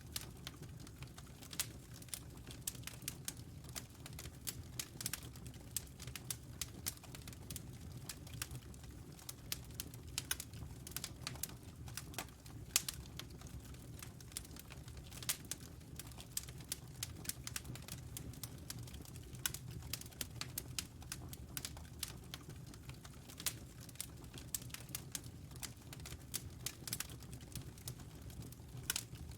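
Wood fire burning in a fireplace: a steady low rumble of flames with irregular sharp crackles and pops, several a second, the loudest pop a little under halfway through.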